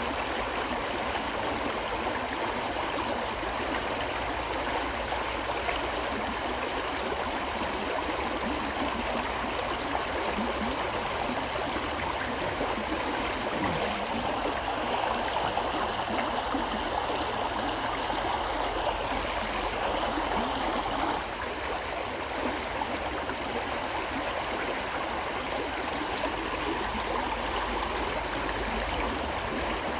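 River water flowing steadily: a continuous, even rush of water.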